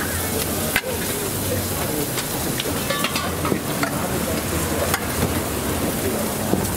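Tartiflette sizzling steadily in a pan, with a few sharp clicks.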